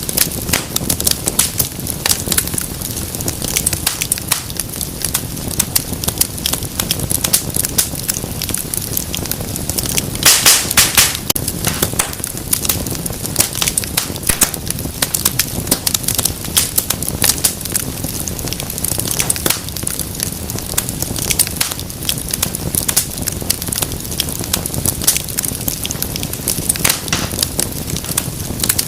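Wood fire crackling in a fireplace: a dense run of sharp pops and snaps over a steady low rumble of flame, with a louder burst of pops about ten seconds in.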